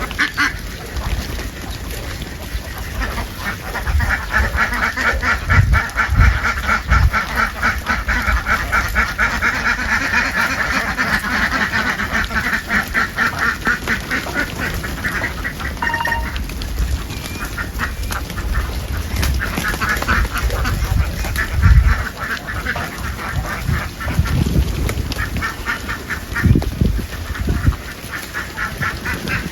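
A large flock of ducks quacking, many voices at once in a dense, rapid chatter that eases for a few seconds midway, with a few dull low thumps among them.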